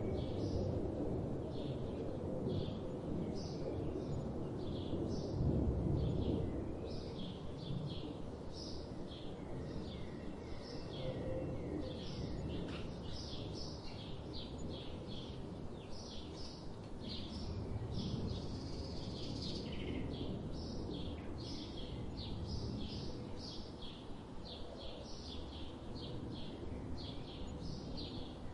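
Birds chirping outdoors: many short, high chirps repeated throughout, growing busier in the second half, over a low background rumble.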